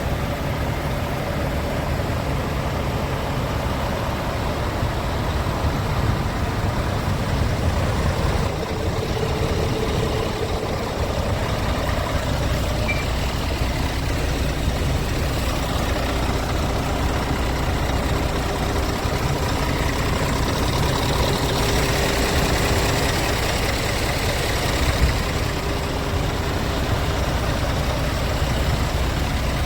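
Scania P410 truck's 13-litre six-cylinder diesel engine idling steadily, with a single short knock late on.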